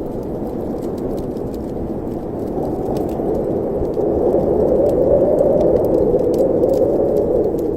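Wind blowing in a fireplace chimney: a steady low rush that swells louder about halfway through, with faint scattered crackles.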